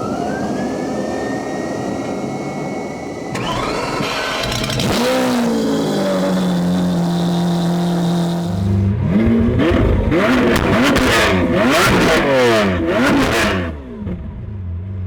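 Lamborghini Aventador SV's V12 through a Capristo valved exhaust with decat pipes starting up. A whine rises and holds for about three seconds, then the engine fires, flares and settles into a steady idle. From about nine seconds in, the throttle is blipped in a quick run of revs that rise and fall, and it drops back to idle near the end.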